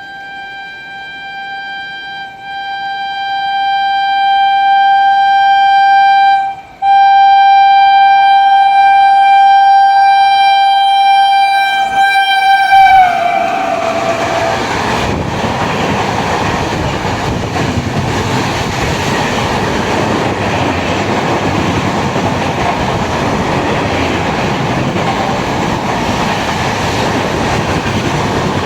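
A passing train's horn held long and steady, growing louder as it approaches, with a short break about six and a half seconds in; about thirteen seconds in its pitch drops as the locomotive passes and the horn stops. The train then runs past with a steady rush of wheel and rail noise.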